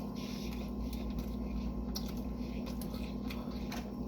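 Eating sounds: chewing and soft clicks and squishes of food handled by hand, over a steady low electrical hum.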